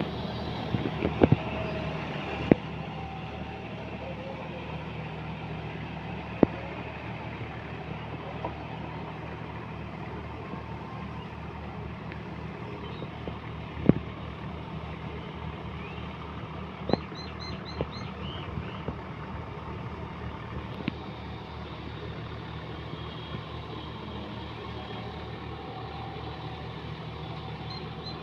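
John Deere 5210 4x4 tractor's diesel engine running steadily, with a few sharp clicks or knocks and a short run of high chirps about 17 seconds in.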